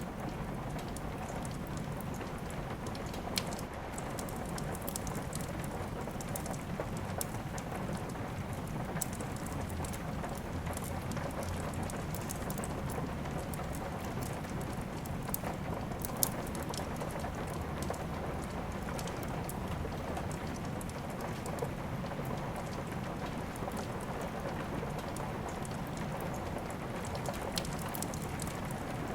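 Steady rain mixed with a crackling wood fire, with many scattered sharp pops and ticks; one pop about halfway through is louder than the rest.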